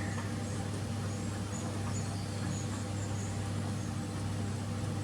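A steady low mechanical hum with a few even overtones, unchanging throughout. Over it come faint, short, high-pitched chirps repeating about twice a second.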